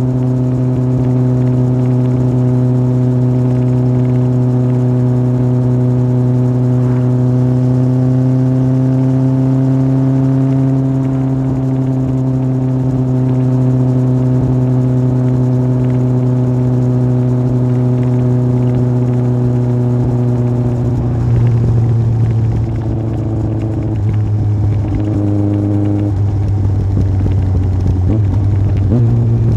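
Yamaha Fazer 1000's inline-four engine through an aftermarket MIVV exhaust, pulling at a steady engine speed for about twenty seconds. Then the engine note drops and wavers as the engine speed changes, and it climbs again at the very end.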